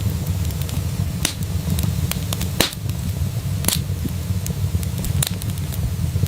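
Wood fire in a fireplace crackling: a steady low rumble of the flames with scattered sharp pops and snaps, a few of them louder than the rest.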